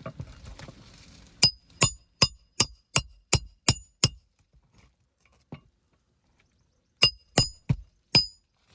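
Hammer driving roofing nails into an asphalt shingle: a run of eight sharp, ringing strikes at about three a second, then a pause and four more strikes near the end.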